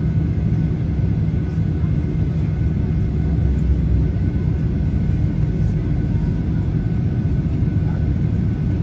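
Helicopter running with a steady, loud low drone and a faint steady high whine over it.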